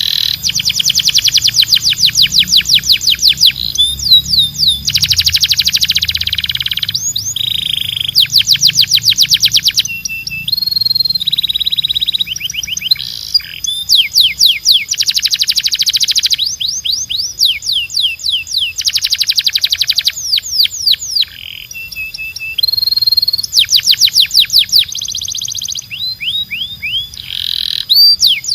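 Domestic canary singing a continuous song of trills, each a rapid run of repeated sweeping notes, switching every second or two between trill types and short held whistles.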